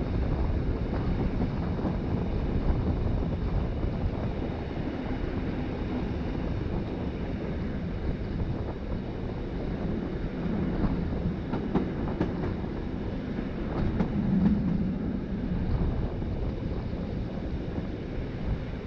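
Rhaetian Railway ABe 8/12 'Allegra' electric railcar running along the track: a steady rumble of wheels on rail, with a few sharp clicks in the second half.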